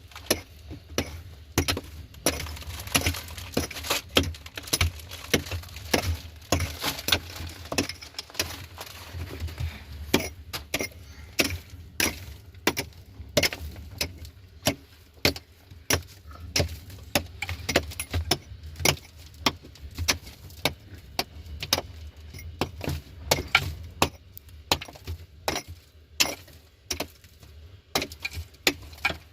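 Hard objects knocking and clinking again and again, irregular but about two or three strikes a second, over a low steady hum.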